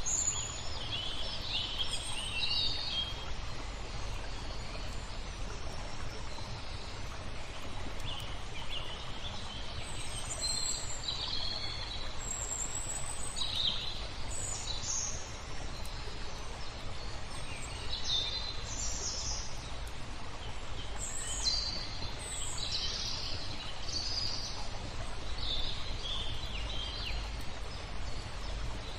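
Songbirds chirping in short, high phrases every second or two, over a steady low rumble and soft background hiss.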